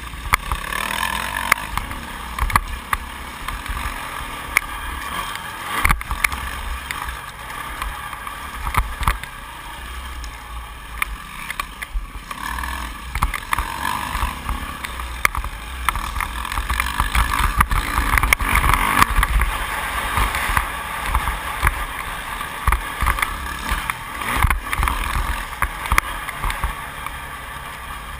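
A 2008 Yamaha YZ450F's four-stroke single-cylinder engine running hard, its revs rising and falling through the lap, with heavy wind rumble on the microphone and scattered knocks.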